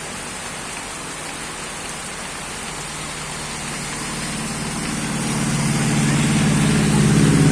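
Heavy rain falling steadily. From about four seconds in, a vehicle engine comes up under it and grows louder, as a motor vehicle approaches.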